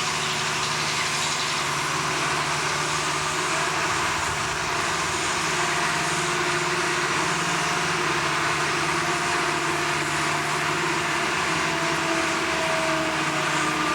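Heavy machinery running steadily: a constant engine-like drone under a broad noise, with a faint whine that drifts slightly in pitch.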